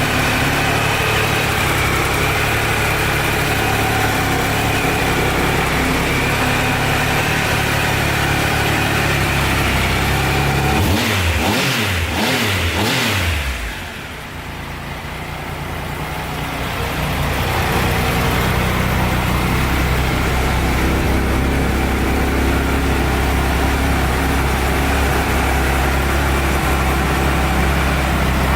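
Triumph Trophy 1200's three-cylinder engine idling steadily, with a few quick throttle blips that rise and fall in pitch about halfway through.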